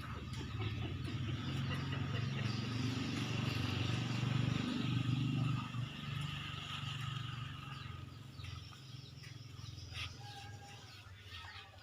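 Low engine rumble that swells over the first few seconds and fades away after about six seconds, with a few faint clicks.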